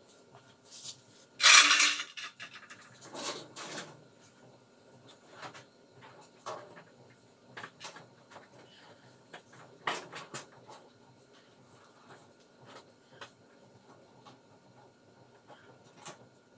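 Metal parts and tools being handled during washing-machine disassembly: a loud metallic clatter and scrape about one and a half seconds in, a smaller clatter soon after, then scattered clinks and knocks.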